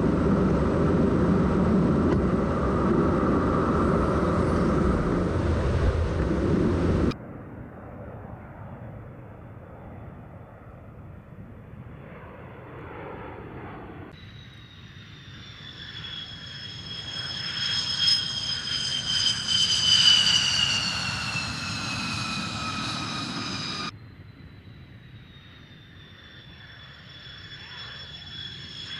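Jet aircraft engines heard in several abruptly cut shots: a loud steady roar for about the first seven seconds, then a quieter rushing sound, then a high turbine whine falling slowly in pitch that swells to its loudest about twenty seconds in and cuts off suddenly a few seconds later, with a fainter falling whine after it.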